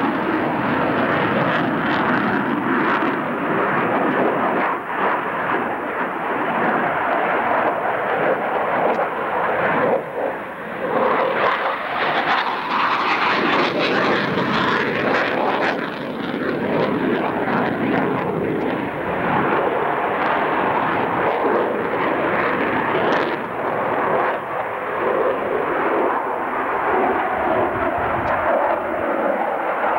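Loud, continuous jet noise from a CF-18A Hornet's twin turbofan engines as the fighter flies a tight high-g turn. The noise swells a little about halfway through.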